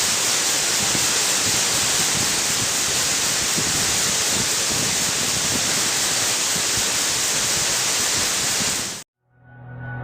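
Steady rushing of water, even and unbroken, that cuts off suddenly about nine seconds in; music fades in just after.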